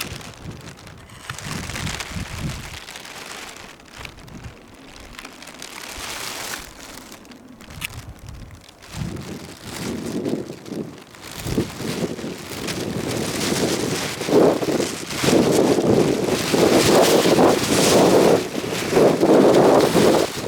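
Gusty blizzard wind buffeting the microphone, the gusts growing louder and more frequent in the second half.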